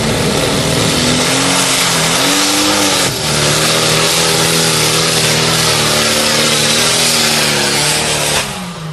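Modified pulling tractor's engine running at full throttle under heavy load, very loud, its pitch wavering up and down. About three seconds in the note dips briefly, and shortly before the end it drops away suddenly as the throttle comes off.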